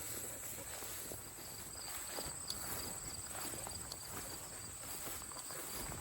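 Steady high-pitched chorus of insects, with a fainter on-and-off trill, over the soft irregular sound of footsteps along a grassy trail.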